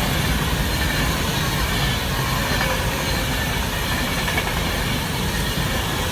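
Class 390 Pendolino electric train passing through at speed: a steady, even rushing noise.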